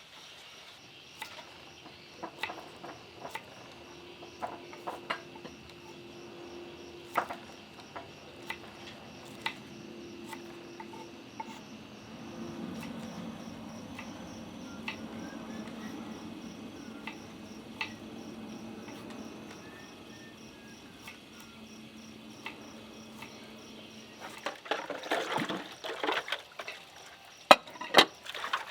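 Steady high-pitched chirring, typical of insects in the countryside, with scattered clinks and knocks. Near the end comes a few seconds of splashing with a couple of sharp, louder knocks.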